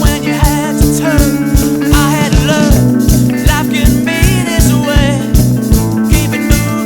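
Hard rock band recording: drums keeping a steady beat under bass and guitars, with a melodic lead line that bends and wavers in pitch.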